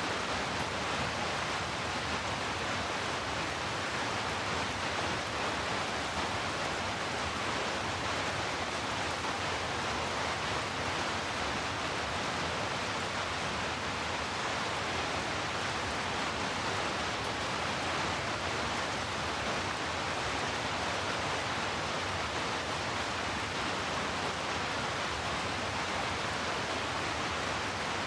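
Heavy rain falling in a steady, even rush that does not change.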